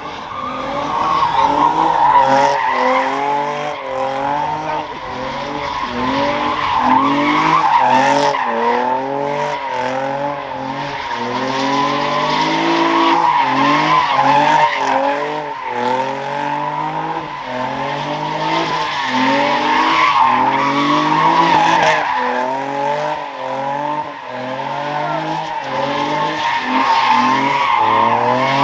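A car's engine revving up and down about once a second while its rear tires squeal steadily, as the car slides in donuts.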